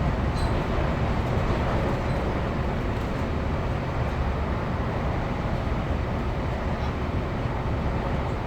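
Class 156 Sprinter diesel multiple unit running at speed: its Cummins diesel engine under power and the wheels on the rails make a steady, even rumble, with a few faint ticks.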